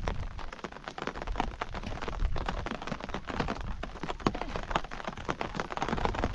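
Steady rain, with many separate drops ticking on a surface.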